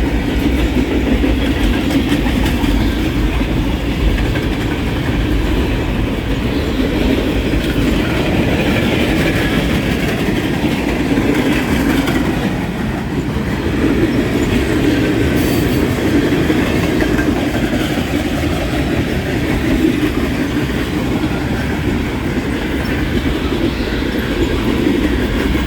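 Freight train rolling past on the track: a steady, loud rumble of steel wheels on rail that runs without a break.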